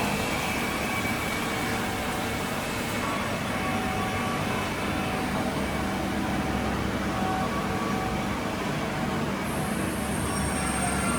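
Star SB-16 CNC sliding head lathe running: a steady mechanical hum and hiss with faint thin tones that come and go, and a high whine joining near the end.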